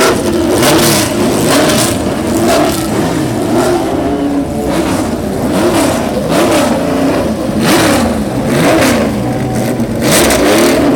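Several classic racing cars' engines revving up and down, their pitches overlapping and rising and falling about once a second, as the cars drive onto the circuit.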